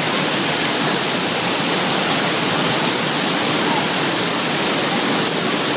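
Water fountain splashing with a steady, even rush of falling water.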